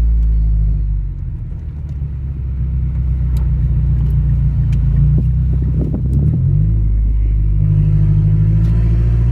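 Mazdaspeed6's turbocharged 2.3-litre four-cylinder running loud through an open downpipe while the car is driven. The note drops about a second in, builds back up, changes pitch around six seconds in, and then holds steady.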